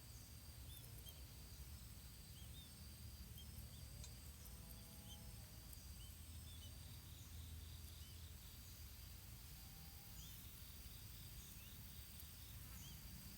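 Faint outdoor ambience: a steady high-pitched insect buzz, with scattered short bird chirps and a low background rumble underneath.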